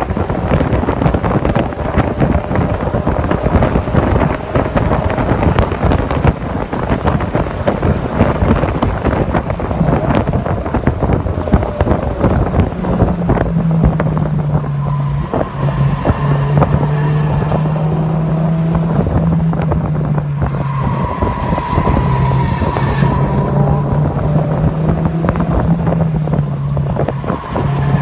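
Onboard sound of a Mazda MX-5 Miata (NC) four-cylinder engine under way on a race circuit, with heavy wind buffeting on the microphone. From about halfway a steady engine drone comes through clearly, shifting up and down in pitch a few times as the revs change.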